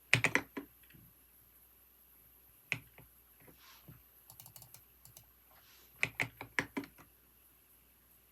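Computer keyboard typing in short bursts: a quick run of keystrokes at the start, a lone keystroke, a few faint light taps, then another quick run of keystrokes past the middle.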